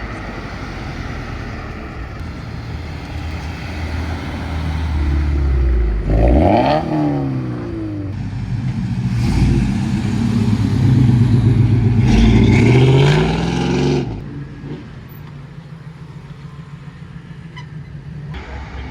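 A car engine at a car meet revving hard about six seconds in. Its pitch climbs again as the car pulls away under acceleration, and the sound cuts off abruptly, leaving a quieter engine idling.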